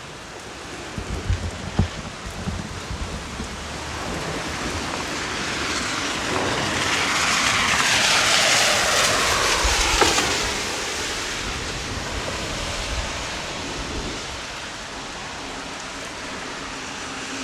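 Heavy rain falling in a steady rushing hiss, swelling to its loudest about eight to ten seconds in and then easing off.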